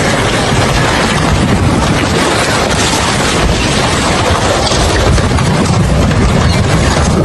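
Strong storm wind blasting across the microphone: a loud, unbroken rush with a heavy low rumble that rises and falls with the gusts.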